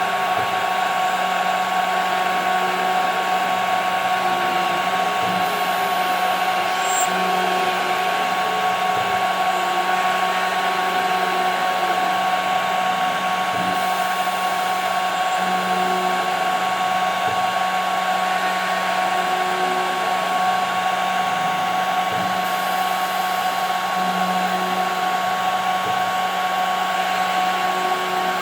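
CNC router spindle running with a steady high whine over a hiss, while a softer lower tone wavers in pitch and comes and goes underneath.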